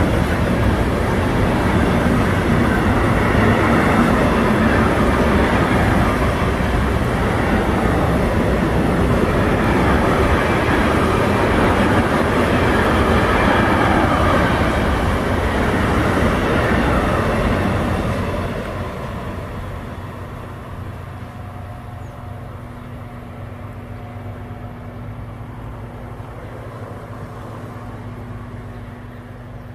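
Freight train of pocket wagons loaded with lorry trailers rolling past at speed: loud, steady rush and rumble of steel wheels on the rails. About 18 seconds in it falls off as the last wagons pull away, leaving a fainter rumble.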